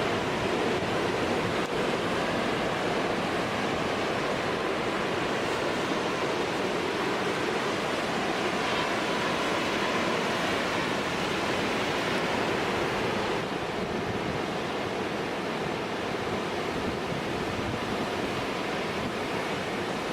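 Large storm waves breaking against and over a rock jetty: a continuous rush of surf and wash that eases a little about two-thirds of the way through.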